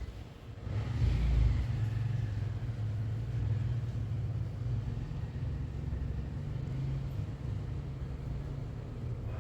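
Low, steady mechanical rumble that comes up about a second in and holds.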